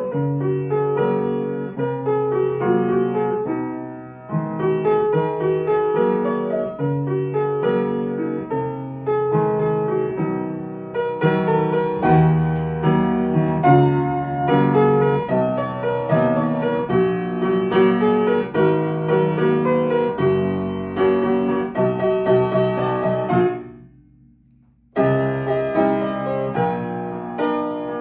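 Piano music playing steadily, fading out about three-quarters of the way through and starting again about a second later.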